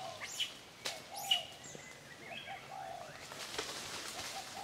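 Birds calling in the trees: a few sharp, high chirps in the first second and a half, over short, low calls that recur throughout.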